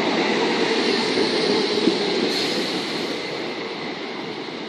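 Class 455 electric multiple unit pulling into the platform and slowing to a stop: a steady rumble with a faint high squeal, growing quieter over the last second or two.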